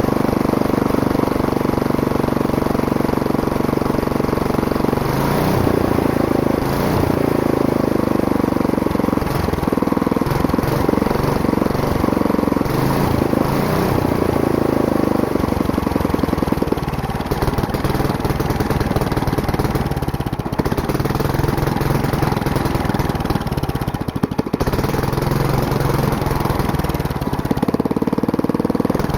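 Go-kart's stock 4-horsepower small engine running, steady for the first few seconds, then rising and falling in pitch as the throttle is opened and eased off.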